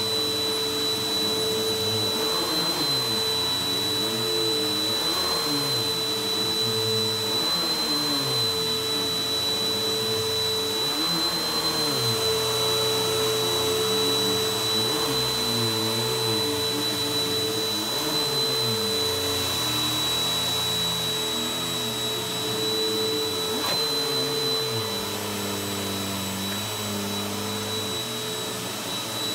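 Vacuum cleaner running on a rug: a steady motor whine with a lower hum that rises and falls every second or two.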